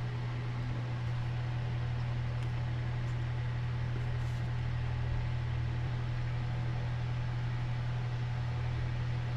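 A motor running with a steady low hum that does not change.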